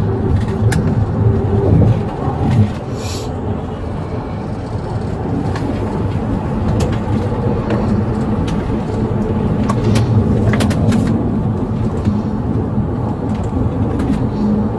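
Police car being driven on the road, heard from inside the cabin: a steady engine and road rumble, with a few brief clicks scattered through it.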